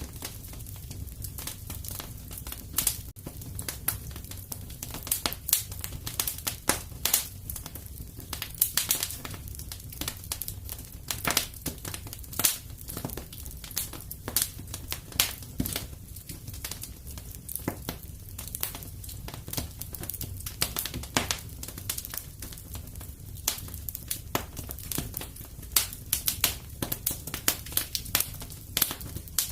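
Wood fire crackling steadily, with many irregular sharp pops and snaps over a low rumble of flames.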